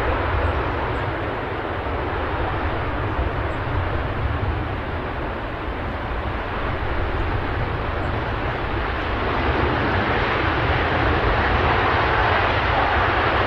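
Jet airliner engines running, a steady dense rumble that dips a little in the middle and grows louder near the end.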